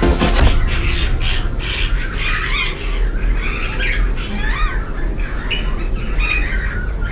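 Electronic music cutting off about half a second in, then many caged birds chirping and squawking at once in a dense, overlapping chorus of short high calls.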